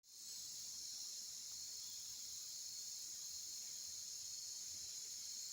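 Faint, steady, high-pitched insect chorus, unbroken throughout.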